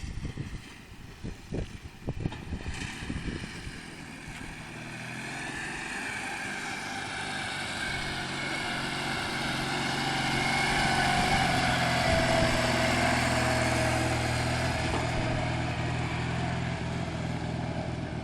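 Homemade tractor's Ural motorcycle flat-twin engine running, growing louder over the first dozen seconds and then easing off slightly, with a whine that dips in pitch near the loudest part. A few knocks sound in the first three seconds.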